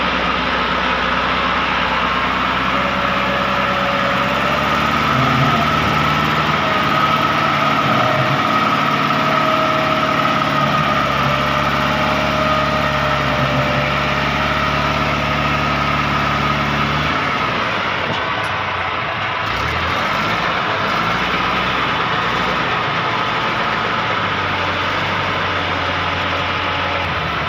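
Massey Ferguson 265 tractor's three-cylinder diesel engine running under heavy load with a steady whine, straining to pull an overloaded trolley stuck in mud. The engine note shifts about two-thirds of the way through.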